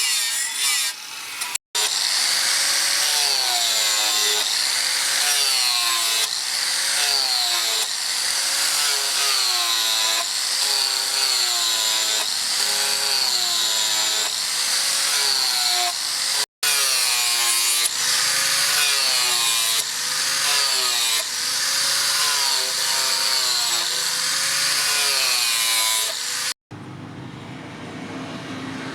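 A hand tool is worked back and forth on spring steel, about one stroke a second, each stroke squealing as its pitch rises and falls. The strokes break off abruptly three times, and a quieter steady hum is left near the end.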